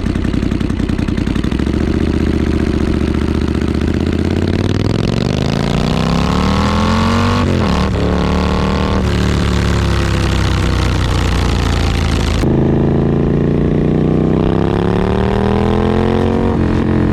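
2019 Triumph Street Scrambler's 900 cc parallel-twin running through British Customs shotgun slip-ons with the stock header and catalytic converter. It is blipped and revved, rising in pitch for a few seconds, dropping back and rising again, with an abrupt cut partway through. It is still throaty and fairly loud.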